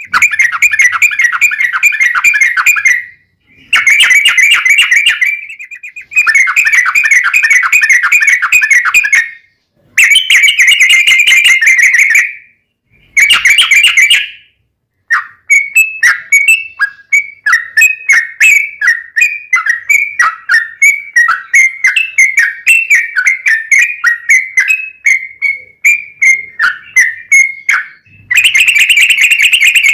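Yellow-vented bulbul (trucukan) singing: bursts of fast chattering trill a couple of seconds long with short gaps between them. About halfway through it changes to a long run of quick separate chirping notes, and near the end comes another trill burst.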